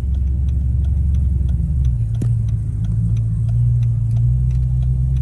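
Car running down the road, heard from inside the cabin as a loud low drone, with a light ticking that repeats at an even pace. A single sharp click sounds a little after two seconds.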